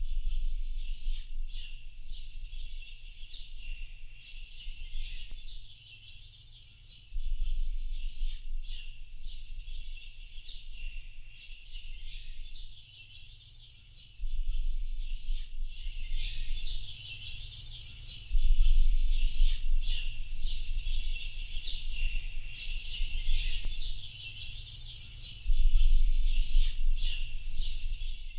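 A dense chorus of many small birds chirping and twittering without a break. Under it, a low rumble comes in suddenly about five times, fading over a few seconds each time.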